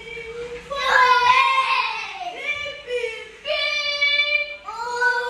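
Children singing in long, held notes, part of a birthday celebration song.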